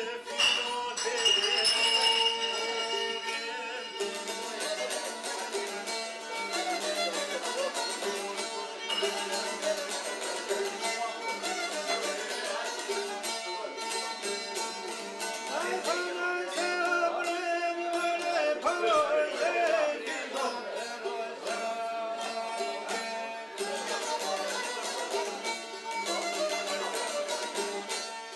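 Traditional Albanian folk music on string instruments, mostly instrumental, with melodic lines that slide in pitch.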